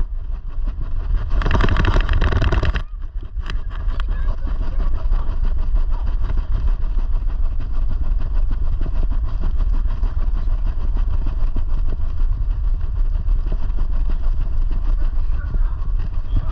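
Steady low rumble of wind buffeting and rubbing on a GoPro strapped to a running dog, with a louder rush about a second and a half in and a short dip just after.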